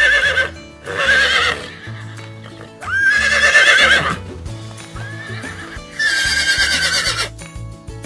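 Horse whinnying about four times, quavering calls each lasting about a second, over background music.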